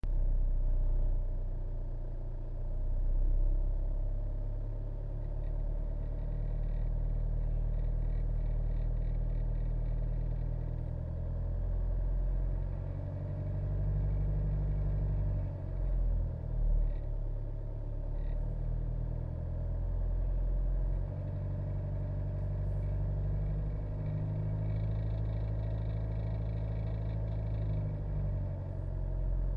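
Steady low rumble of a third-generation Kia Sorento heard from inside the cabin, with a faint quick clacking rattle from behind the dashboard panel that comes and goes.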